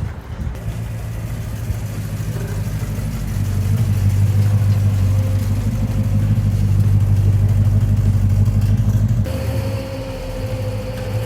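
A car engine running with a deep, steady note that grows louder about three seconds in. The sound changes abruptly and drops back near the end.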